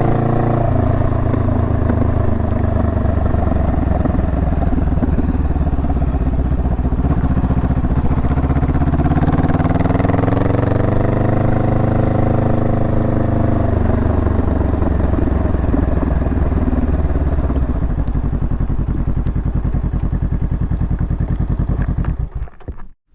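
Honda Rebel 500's parallel-twin engine running on the move. Its pitch climbs as it accelerates around the middle, then drops back to a steadier lower note. The sound fades and cuts off suddenly near the end.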